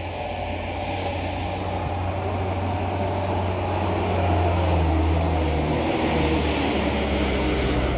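Heavy truck's diesel engine running hard under load on a steep climb, its low note growing louder toward the middle.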